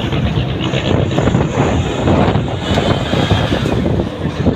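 Race trucks' engines running loudly on the circuit during the race, a rough, fluctuating rumble, with wind buffeting the microphone.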